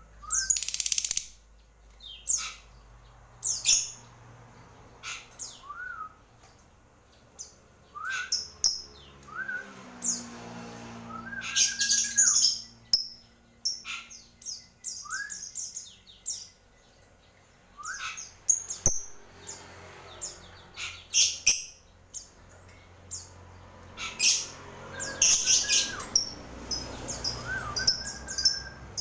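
Small birds chirping in short, shrill bursts, with a short rising-then-falling call repeated every few seconds.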